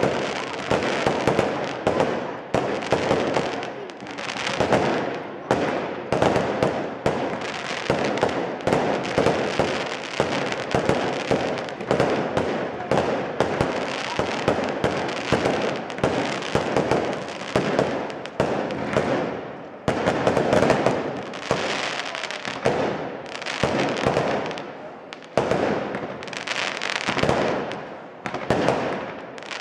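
Aerial fireworks display: a rapid, nearly continuous run of shell bursts and bangs, each with a reverberating tail.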